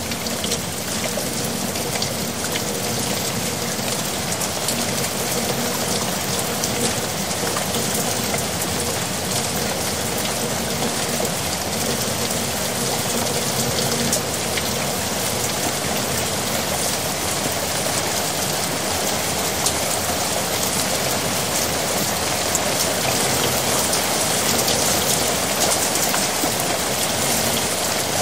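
Heavy rain falling on a yard: a dense, steady patter of drops, with water running and gurgling into a drain gully. It grows a little louder near the end.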